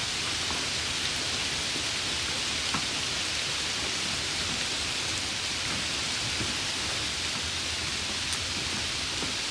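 Steady rain, an even hiss with a few faint individual drop ticks.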